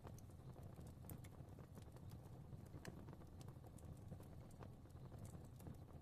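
Fire crackling softly: irregular small pops and snaps over a low, steady rumble of flame.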